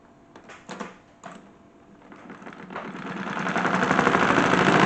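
A few clicks, then a salad spinner converted into a toy washing machine starts running with a fast, even rattle and a low hum, building steadily louder over the last couple of seconds.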